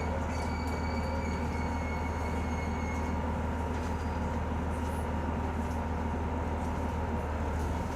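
Cabin sound of a KiHa E120 diesel railcar in motion: a steady low drone from its DMF15HZ six-cylinder diesel under the floor, with continuous wheel-on-rail running noise. A faint thin high whine fades out about three seconds in.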